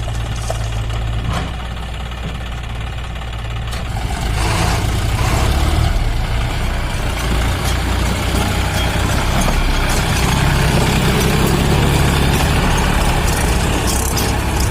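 John Deere 5204 tractor's three-cylinder diesel engine running steadily, then getting louder from about four seconds in and staying so.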